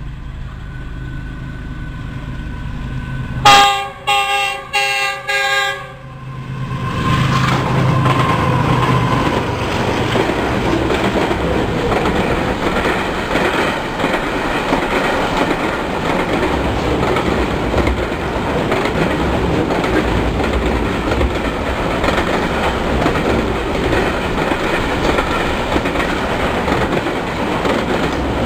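Diesel locomotives GEU-40 9024 and HGMU 30-R 8219, hauling a heavy container train, run in growing louder. The lead locomotive's horn sounds four short blasts about three and a half seconds in. The engines then pass, and the long line of loaded container wagons rolls by with steady wheel clatter.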